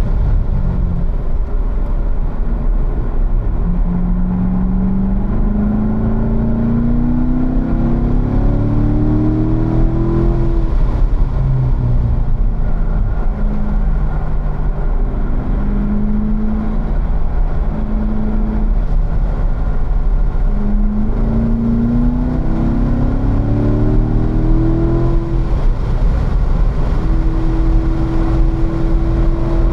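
Chevrolet Corvette C7 Stingray Z51's 6.2-litre LT1 V8 at speed in third gear, heard from inside the cabin over steady wind and tyre noise. The engine note climbs under throttle, drops back when the driver lifts about eleven seconds in, holds lower through a slow corner, then climbs again twice more.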